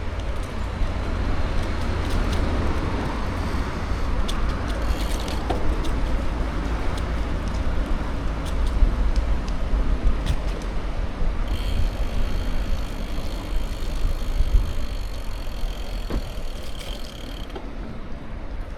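Wind rumbling on the microphone of a moving bicycle, over the rush of its tyres rolling on the road surface, with scattered small clicks. A steady high whine joins a little past halfway and stops shortly before the end.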